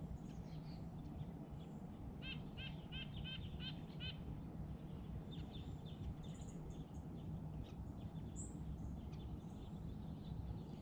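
Small birds calling: a quick run of about eight evenly spaced, ringing calls, roughly four a second, between about two and four seconds in, with scattered short high chirps before and after. A steady low rumble lies underneath.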